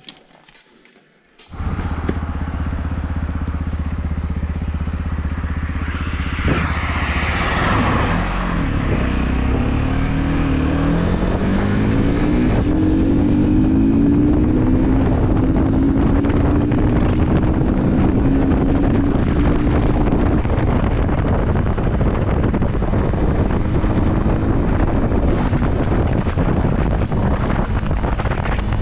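Motorcycle engine starting suddenly about a second and a half in and idling, then pulling away with its pitch rising as it accelerates, and running steadily at riding speed.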